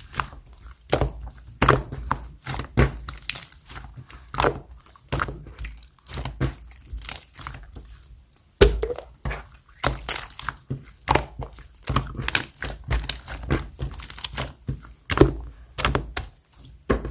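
Clear slime being pressed, stretched and squished by hand, giving an irregular run of wet pops and clicks, several a second.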